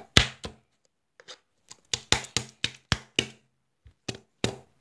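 Lotion slime squeezed and pressed by hand, giving a string of sharp, wet pops and clicks, several in quick succession midway.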